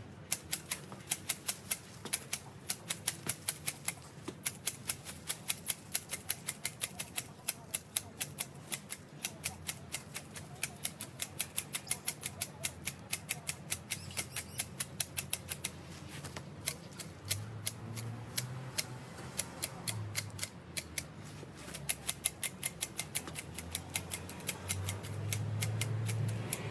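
Hand hedge shears snipping foliage in a steady rhythm, about three crisp cuts a second. A low hum swells in beneath them near the end.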